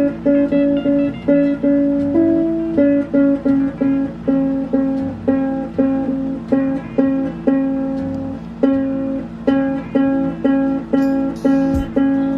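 Ukulele music: short plucked notes and chords in a light, even rhythm of about two to three a second.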